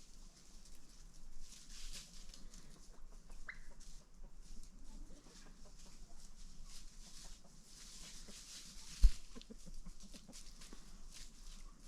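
Domestic chickens clucking softly amid scratching and rustling, with a single sharp thump about nine seconds in.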